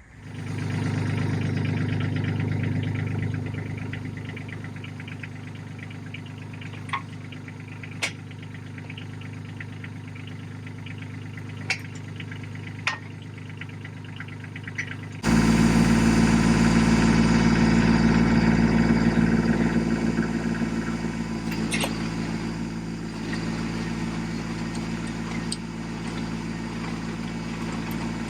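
Tractor engine running steadily. About halfway through, the sound jumps abruptly to a louder, deeper run of the engine, with a few sharp clicks scattered through.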